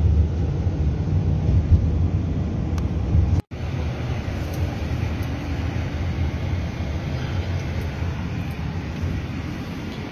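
Vehicle driving on the road: steady low engine and road rumble. It cuts out for an instant about three and a half seconds in, then carries on a little quieter.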